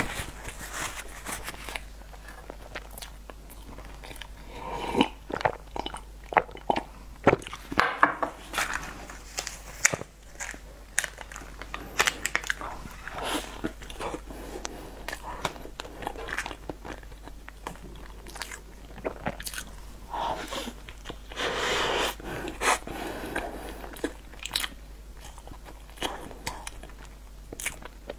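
Close-miked eating sounds: a person biting into and chewing a dark cake, with many sharp mouth clicks and smacks.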